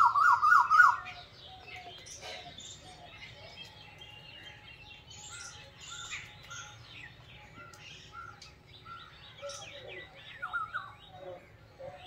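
Several garden birds chirping and calling, with a loud run of quick repeated notes in the first second and a shorter run again near the end.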